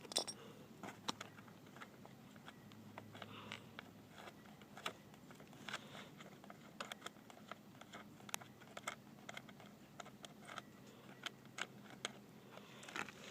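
Scattered light metallic clicks and ticks of a wrench and bolts being handled while a loosely fitted bolt is backed off on a dirt bike. The clicks come irregularly, a few a second at most, with no steady rhythm.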